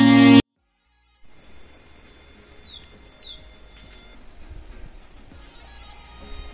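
Background music cuts off abruptly, then a bird sings short, high, warbling chirp phrases that repeat every couple of seconds over a faint steady hiss.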